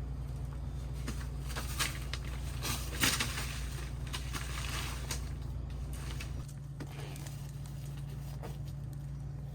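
Steady low hum of a running air-conditioning unit, which drops slightly about six and a half seconds in, with scattered light clicks and rustles of handling over it.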